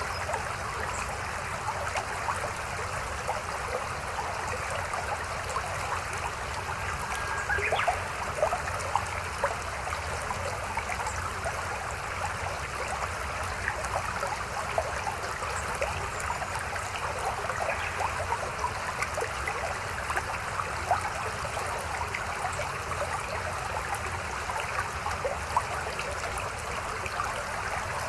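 Shallow mountain stream babbling over rocks: a steady rush of flowing water with many small splashes and gurgles.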